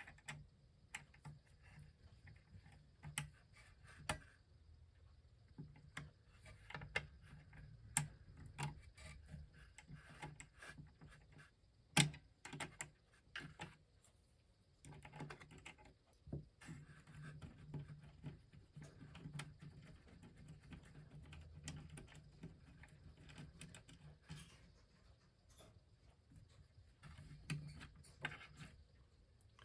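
Faint, irregular small metallic clicks and scrapes of a wrench undoing the nut that holds the tone arm of an RCA Victor 45-J record player, with a few sharper ticks along the way.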